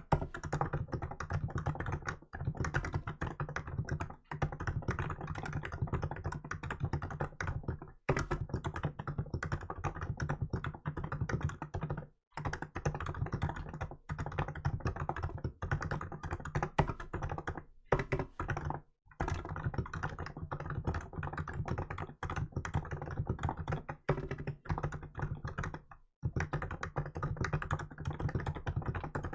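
Continuous typing on a Hansung GK868B electro-capacitive keyboard with milk-white keycaps: quick runs of soft, muffled keystrokes with brief pauses every few seconds.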